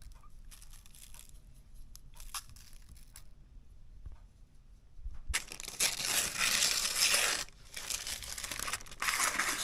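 Rustling and crinkling, faint and scattered at first, then loud for about two seconds from five seconds in and again near the end.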